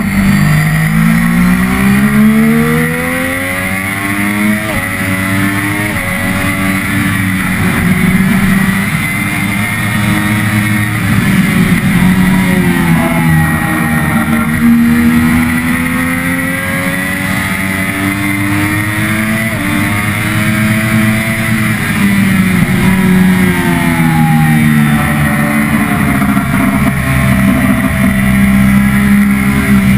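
Triumph Daytona 675R's inline three-cylinder engine at racing speed, the revs climbing through several quick upshifts and falling away between the rises, over a steady rush of wind.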